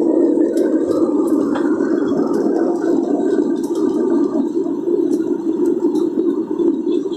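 Airliner cabin noise: the steady, loud roar of the engines and rushing air heard from inside the passenger cabin, with a few faint clicks and rattles over it.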